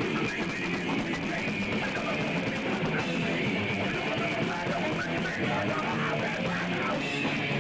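A punk rock band playing live: distorted electric guitars, bass and drums running fast and steady, recorded on a camera's microphone.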